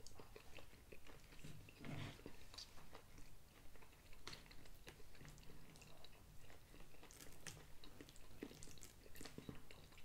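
Faint, close-up chewing of a mouthful of food, with wet mouth noises and irregular small clicks, some of them a metal fork touching the plate.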